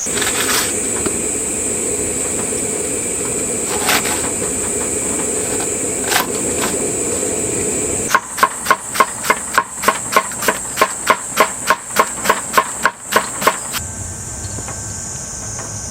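A steady hiss with a few single knocks, then a quick, even run of about sixteen knocks, about three a second, lasting some six seconds.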